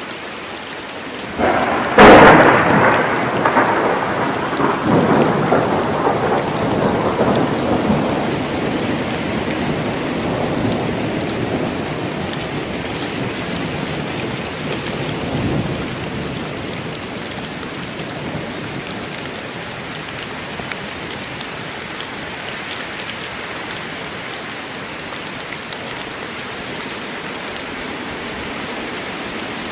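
Steady heavy rain falling in a forest, broken about two seconds in by a sharp thunderclap that rolls on as a long, fading rumble for roughly ten seconds before the rain alone continues.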